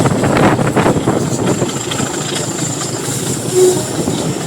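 Heritage train running along the line, heard from on board a carriage: a steady rumble and rattle of wheels on the rails.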